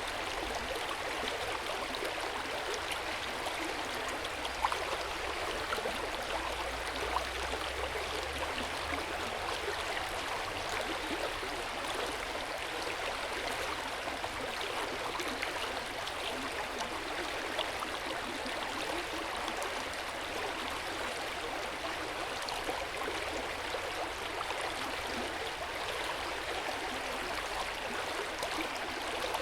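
Hot-spring water flowing steadily into an open-air bath, a continuous rush of water with a few small splashes.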